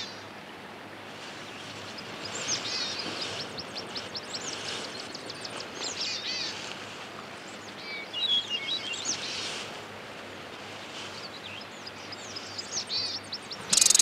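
Small birds chirping in several short runs of quick high notes over a faint steady forest hiss. Near the end an American red squirrel bursts into its loud, rapid rattling territorial call.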